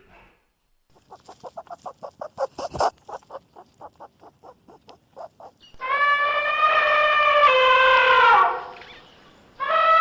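A goat bleating: one long, drawn-out bleat that drops in pitch at its end, with a second bleat starting near the end. Before the bleats comes a quick run of short, evenly paced animal calls, about five a second, for roughly four seconds.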